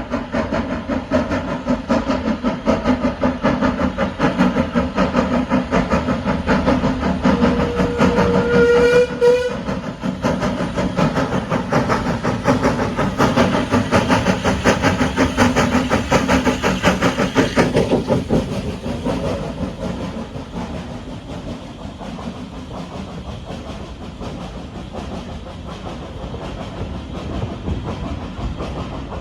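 Hunslet 0-6-0 saddle-tank steam locomotive working its train away, with a dense rhythmic clatter of the locomotive and coach wheels on the rails. A short steam whistle blast sounds about eight seconds in, and the train noise fades after about eighteen seconds as it draws away.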